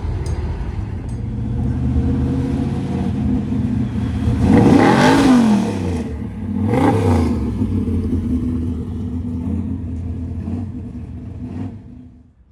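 Classic cars' engines running as they drive off. About 5 seconds in, one engine revs up and back down loudly, and a second, smaller rev follows shortly after. The sound cuts off abruptly near the end.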